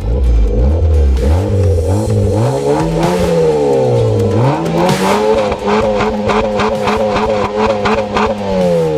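Mazda Demio Sport's four-cylinder engine revving through an EXAS Evo Tune aftermarket muffler: several blips that rise and fall, then revs held high for about three seconds before dropping back near the end.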